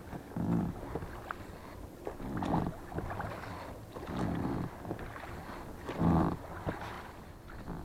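A small boat being rowed: an oar stroke with a rush of water about every two seconds, four strokes in all.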